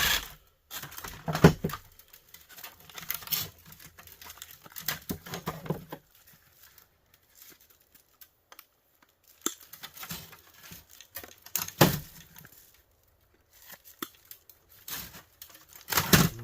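Hand dismantling of a plastic electric heater: plastic housing parts rattling, rustling and knocking, with small metal parts clinking, in irregular bursts with pauses between. The sharpest knocks come about a second and a half in, around twelve seconds in, and near the end.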